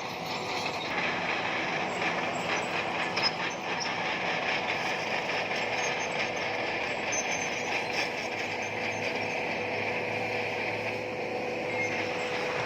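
Bulldozer working: its diesel engine runs steadily, with the clatter of its steel crawler tracks.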